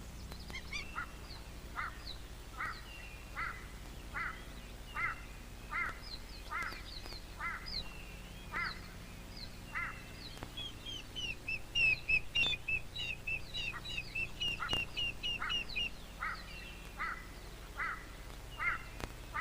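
Birds calling in the bush: one repeats a short, falling call about once every second, while others give runs of quick, high chirps that are loudest about twelve seconds in. A faint steady low hum lies underneath.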